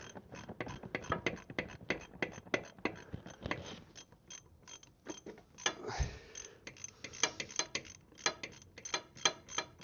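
Ratchet wrench clicking in quick runs as a bolt is worked, with a dull knock about six seconds in.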